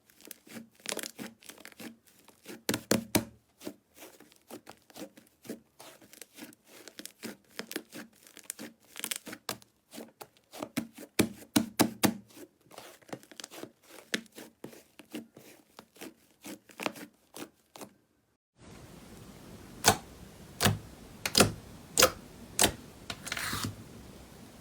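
Slime being squeezed and poked by hand, making rapid sticky clicks and crackling pops. About three-quarters of the way through, the sound cuts to another clip: a handful of louder pops, one every half second or so, over a steady hiss.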